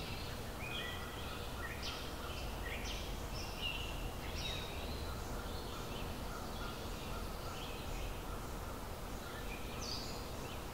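Birds chirping, many short calls overlapping and thinning out in the middle, over a steady low background rumble.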